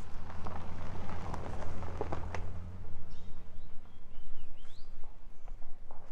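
Footsteps of a walker on a forest trail, about two steps a second, over a steady low rumble. Birds give a few short chirps with rising notes about three seconds in.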